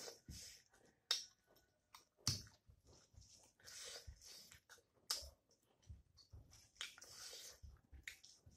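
Close-up eating sounds: wet chewing and lip smacks, with several sharp mouth clicks, and the soft rustle of fingers mixing rice on a plate.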